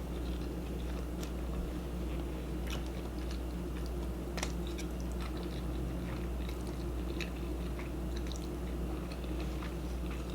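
A person chewing food close to the microphone, with scattered small wet clicks and crackles from the mouth, over a steady low hum.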